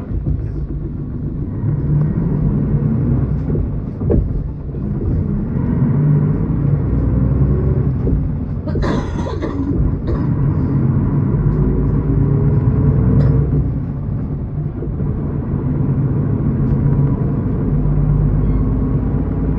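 Miyazaki Kotsu route bus's diesel engine running as the bus drives, heard inside the cabin. The engine note rises twice as the bus pulls and accelerates, and there is a short burst of hissing air about nine seconds in.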